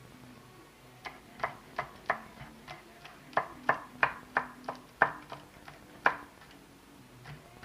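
A knife chopping on a cutting board: a run of sharp taps, about three a second, starting about a second in and stopping about six seconds in, with a few fainter taps near the end.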